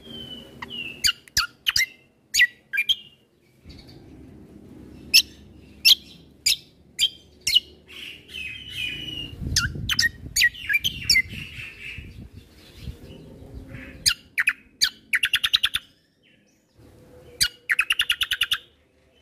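Kecial kombo (cucak kombo) songbird singing: a run of sharp, down-sweeping chip notes mixed with warbling phrases, and two fast rattling trills near the end.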